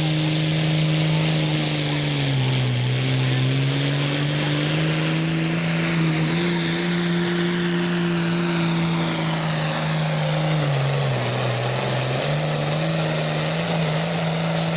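Hot stock pulling tractor's diesel engine running flat out under heavy load as it drags the sled, with a high whistle over it. Its pitch sags twice, about two and a half seconds in and again near eleven seconds, as the load bogs it down, then climbs back.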